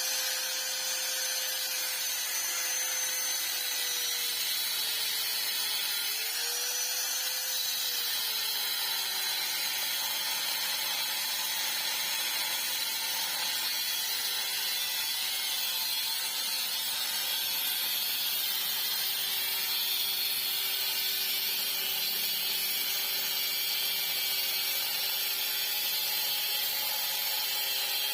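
Handheld electric power tool running steadily while working on a motorcycle exhaust, with a high whine and hiss. Its pitch sags a few seconds in and recovers, as if bogging under load, then settles a little lower and holds.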